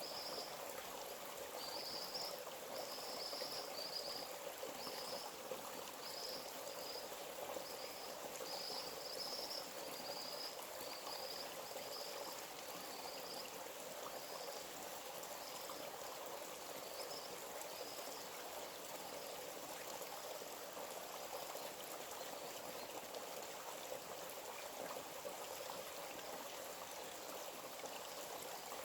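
Forest stream running steadily. Short high chirps repeat about once or twice a second over it, thinning out and stopping about two-thirds of the way through.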